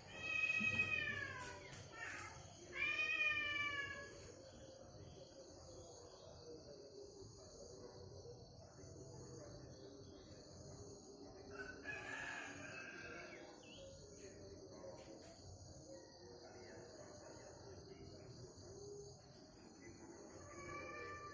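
A cat meowing twice, each meow falling in pitch, over a steady high-pitched chorus of birds and insects, with fainter calls later on.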